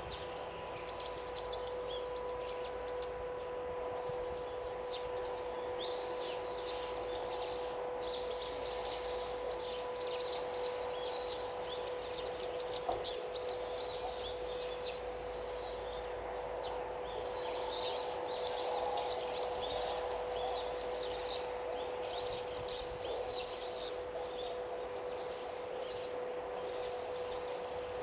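Small birds chirping and twittering in many short, quick calls, over a steady low hum.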